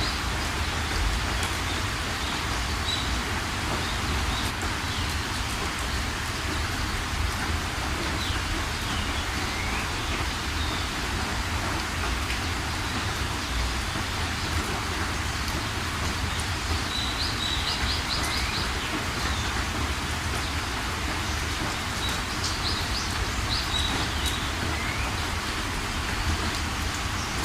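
Steady rain falling, with a bird calling over it: quick trills of high notes near the start, about two-thirds of the way in and near the end, and a few single short chirps between.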